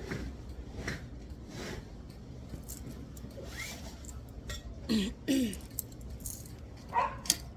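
Handling noise from fitting a curtain on a patio rod: fabric rustling, scraping and light clinks of the hardware as it is loosened and tied, with two brief falling squeaky sounds about five seconds in and sharper clicks near the end.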